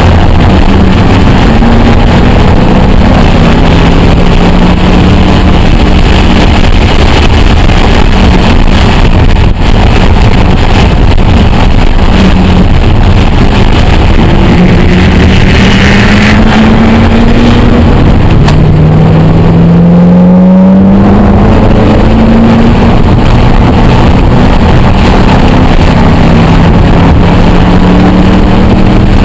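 Roush 427R Mustang's supercharged V8 heard from inside the cabin at speed, its pitch climbing under acceleration and falling back several times, over a steady rush of road and wind noise. Very loud throughout.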